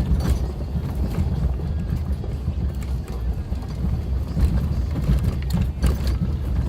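Suzuki Jimny driving on a rough gravel forest road, heard from on board: a heavy, uneven low rumble from the engine and suspension, with occasional sharp clicks and knocks, a couple of them near the end.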